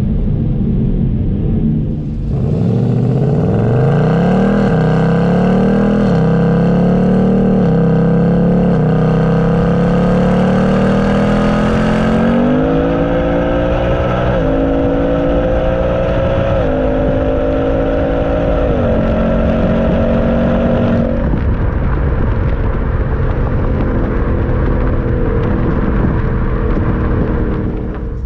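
Mustang GT's 5.0 L V8 at wide-open throttle through the ten-speed automatic. From about two seconds in, the engine note climbs and drops back with each of a series of quick upshifts. About 21 seconds in the throttle is lifted and the note falls to a lower, steadier tone as the car coasts.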